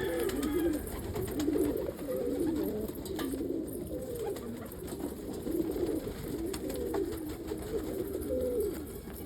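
A flock of domestic pigeons cooing, many overlapping low coos rising and falling without a break.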